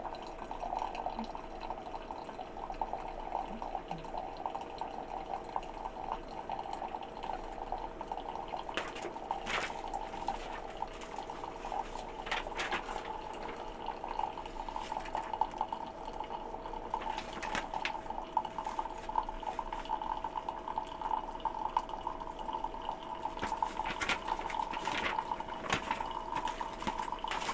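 Keurig K-Cafe single-serve coffee maker brewing: a steady pump hum with coffee streaming and dripping into the cup, and a few brief clicks.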